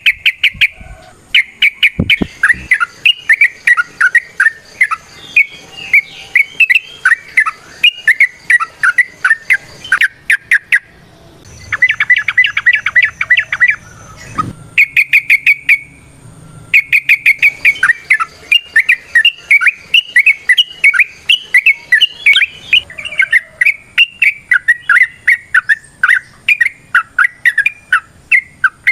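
Yellow-vented bulbul (trucukan) singing: long runs of rapid, quick-fire chattering notes, broken by two short pauses, one about a third of the way in and one just past halfway.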